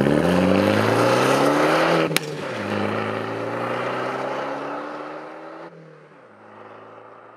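Alfa Romeo MiTo accelerating hard through the gears: the engine note climbs, drops with a sharp pop at the upshift about two seconds in, then climbs more slowly. Near the end it shifts again and fades as the car pulls away.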